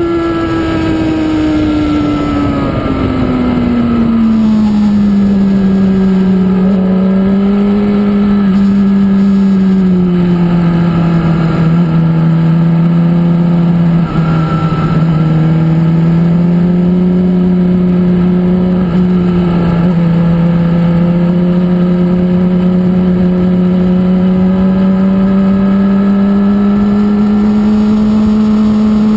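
Onboard sound of a sportbike's engine at track speed, with wind rush over the microphone. The engine note drops over the first few seconds as the revs fall, then holds nearly steady through a long stretch of cornering and climbs slowly near the end.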